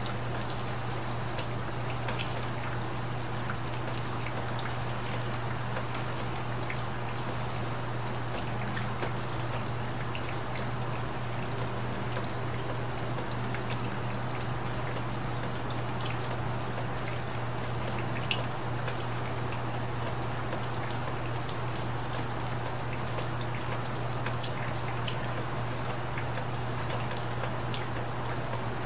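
Steady rain falling, with scattered sharp drops ticking and a few louder ones hitting in the middle, over a steady low hum.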